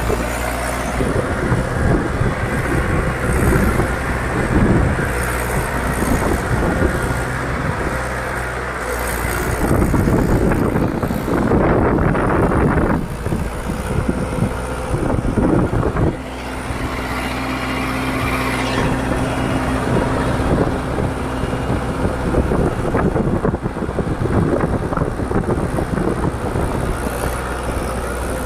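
Mahindra 575 DI XP Plus tractor's four-cylinder diesel engine running steadily under the load of a trolley, getting louder for a few seconds about a third of the way in and changing note about halfway through.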